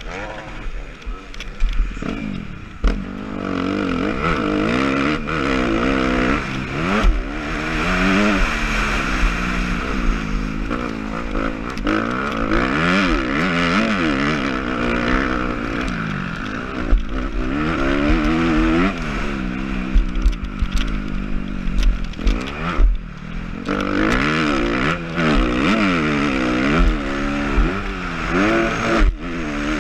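Suzuki RM-Z250 four-stroke single-cylinder motocross engine revving hard and dropping back again and again as the rider races around the track and shifts through the gears, with rough low thumps mixed in.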